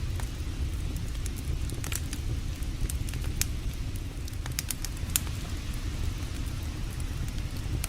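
Campfire crackling, with scattered sharp pops, the clearest about two, three and a half and five seconds in, over a steady low rumble.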